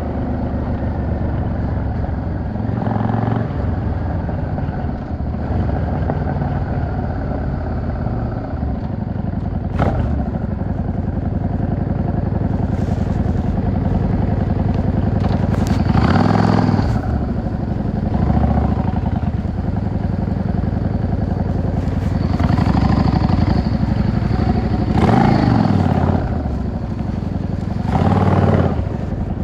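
Yamaha XVS 650 V-Star's air-cooled V-twin running under way, with several brief louder throttle openings as the bike accelerates. The strongest come about halfway through and near the end.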